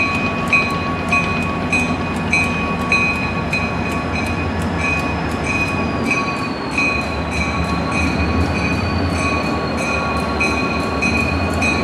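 Standing passenger train idling: a steady diesel drone with steady high tones and an even high pulsing about twice a second.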